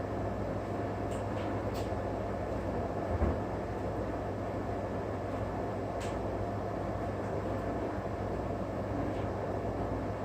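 Steady low hum and rumble of background noise, with a dull knock about three seconds in and a few faint clicks.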